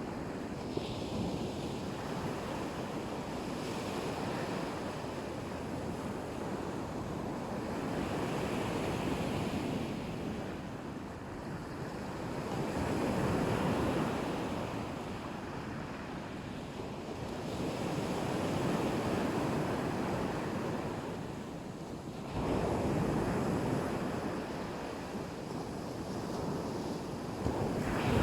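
Black Sea surf breaking on a beach: waves rush in and draw back, swelling and ebbing about every four to five seconds.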